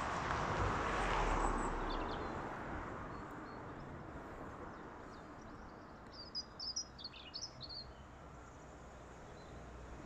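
A broad rushing noise, like passing traffic, swells and fades over the first few seconds. About six to eight seconds in, a small bird gives a quick run of high chirps.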